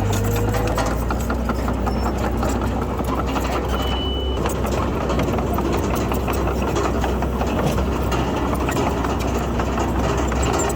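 Heavy diesel earthmoving machinery running steadily, with a constant low engine drone and a stream of small clanks and rattles.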